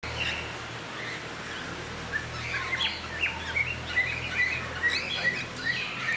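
A flock of small parrots (cockatiels, lovebirds and conures) chirping: many short, quick chirps that grow busier after the first couple of seconds, over a faint low hum.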